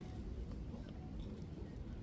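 Faint low rumble of a concert audience and venue, with a few small scattered clicks.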